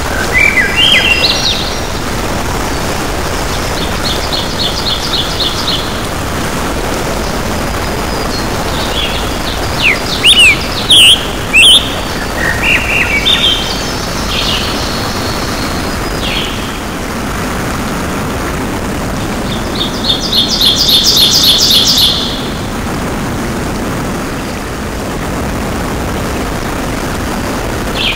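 Songbirds chirping and trilling in short bursts of rapidly repeated notes over a steady noise hiss, with the loudest flurries of calls about ten seconds in and again past twenty seconds.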